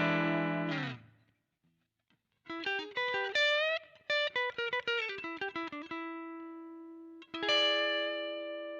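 Electric guitar played through a VOX StompLab IIG modeller on a clean/crunch amp model. A chord fades out and there is a short pause. Then comes a quick run of single notes ending on a held note, and a chord struck near the end is left ringing.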